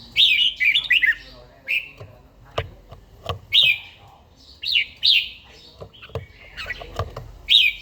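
Red-whiskered bulbul singing: short, quick phrases of falling whistled notes repeated every second or so, with a few sharp taps in between.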